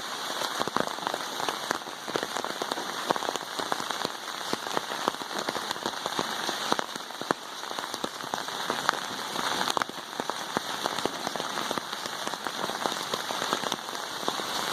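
Heavy pouring rain, a steady hiss of downpour with many close drops hitting sharply.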